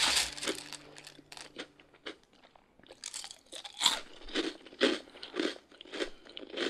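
A person chewing crunchy food, with sharp crunches coming roughly twice a second.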